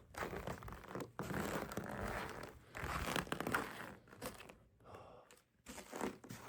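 Footsteps crunching through snow in uneven bursts for the first few seconds, then fading.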